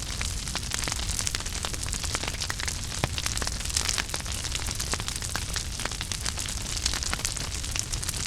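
Wood fire burning in a fireplace: a steady hiss and low rumble with dense, irregular crackles and pops.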